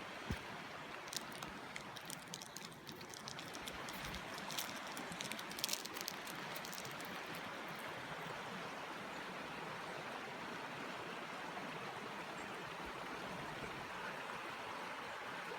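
River water flowing steadily, a constant rushing wash. In the first half a few light clicks and rustles sound over it.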